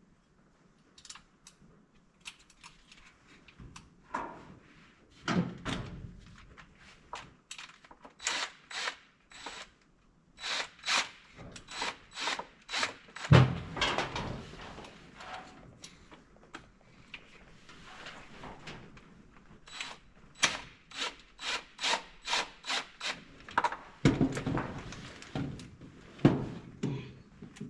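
Irregular clicks, knocks and rubbing from hands-on work with tools and parts, with runs of quick clicks and one louder knock about halfway through.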